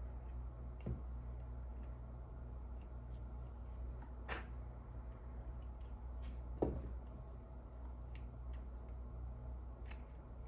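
Small lens parts of a Sony SELP1650 power-zoom lens clicking and tapping as they are handled and fitted during reassembly. There are light scattered clicks and three louder taps, about a second in, near the middle and about two-thirds through, over a steady low hum.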